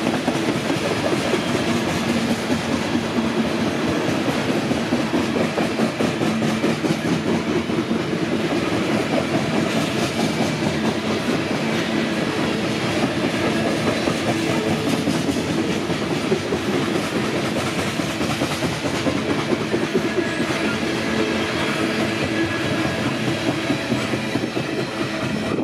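Loaded steel coal hopper cars rolling past close by, their wheels clicking steadily over the rail joints under a continuous running noise.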